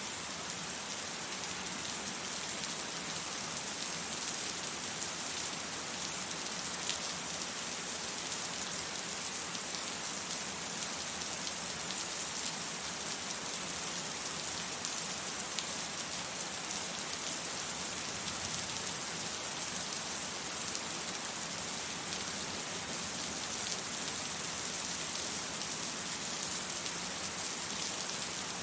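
Steady rain falling, an even hiss with a fine patter of drops and no thunder.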